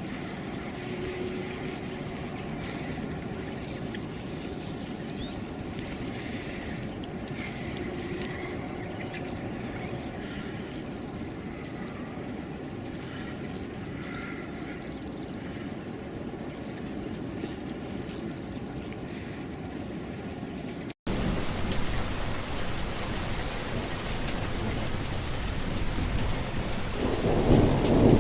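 Birds chirping over a steady hiss of rain. About two-thirds of the way through it cuts abruptly to heavier, louder rain, and a low rumble of thunder swells near the end.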